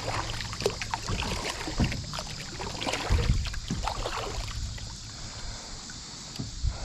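Kayak on a river: irregular water splashes and knocks against the hull, with a few heavier thumps about three seconds in, growing quieter near the end.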